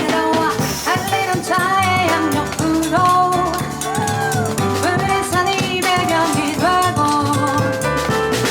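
Live jazz band music: piano, double bass and drum kit playing together, with a melody line that slides up and down in pitch.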